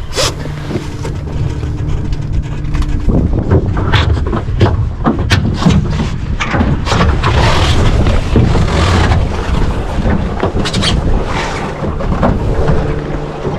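Wind buffeting the microphone and water rushing and splashing against a small sailing dinghy's hull while it is under sail, with many short sharp splashes or knocks.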